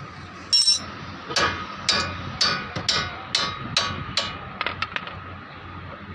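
Metal being struck with a hammer: a sharp hit, then seven evenly spaced ringing blows about twice a second, and a few light taps.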